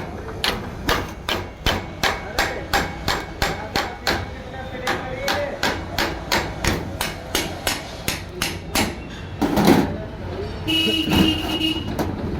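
Hammer blows at a steady pace, about two to three a second, during work to change a Suzuki Swift alternator's bearing. The hammering stops about nine seconds in, followed by a louder scraping knock and a short beep near the end.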